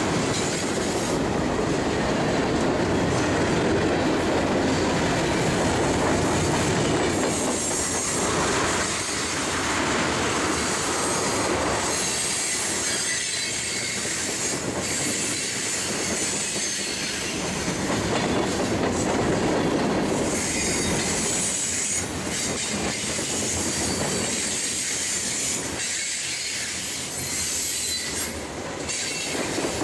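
Freight train cars (covered hoppers and tank cars) rolling past close by: a steady rumble of steel wheels on rail with clacking over the rail joints and a high-pitched wheel squeal that comes and goes.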